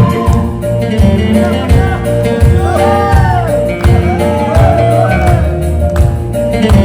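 Live band music with a steady drum beat, and a voice singing a melody that curves up and down in the middle.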